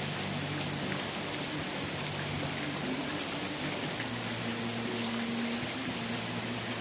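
Steady rain falling: a dense, even hiss with scattered sharper drop ticks and a faint low hum underneath.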